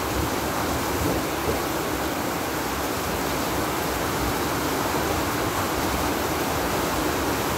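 Heavy storm rain pouring down steadily, a constant even hiss of downpour from a typhoon.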